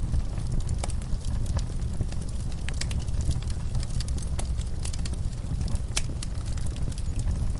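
Wood fire crackling, with irregular sharp pops over a low steady rumble, mixed with horses stirring in a stall.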